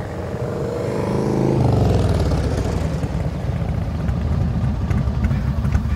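A vehicle engine accelerating: its note rises for about a second and a half, then drops suddenly into a lower, steady running sound.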